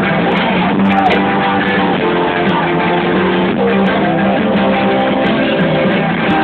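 Rock band playing live, with strummed guitars and bass carrying a steady, dense instrumental passage.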